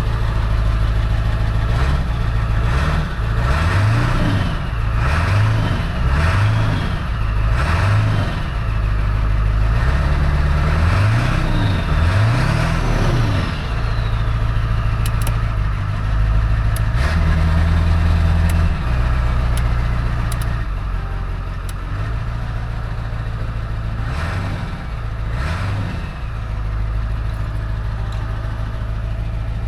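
Ford F450's 7.3 L Power Stroke turbo-diesel V8 idling and being revved again and again: a run of quick blips, a longer held rev partway through, and two more blips near the end. It is a test run after the injector driver module and injector harness were replaced.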